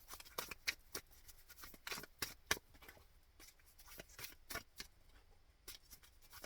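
A deck of tarot cards being shuffled by hand: a run of quiet, irregularly spaced card snaps and slaps.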